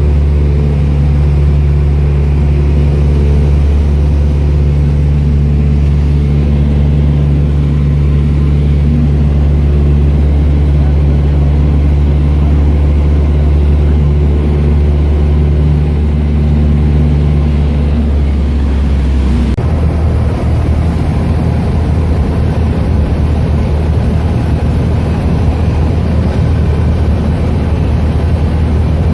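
Small airplane's engine and propeller running steadily and loudly with a constant low pitch. About two-thirds of the way through the sound changes abruptly to a rougher, less even tone.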